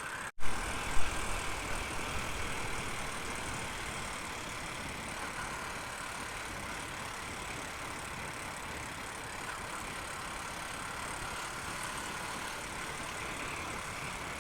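Honda Unicorn motorcycle being ridden at a steady pace, its engine running evenly under a constant rush of wind noise on the microphone.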